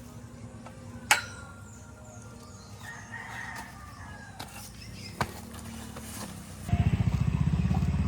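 A rooster crows about three seconds in, after a sharp click about a second in. Near the end a loud, low, rapidly pulsing rumble takes over.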